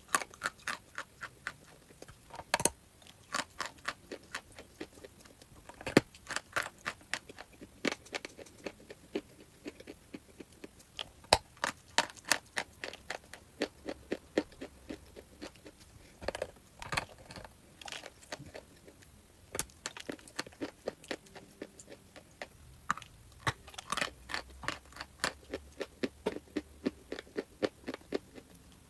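Crunchy chalk being bitten and chewed, a rapid, irregular run of sharp crunches and crackles with brief pauses.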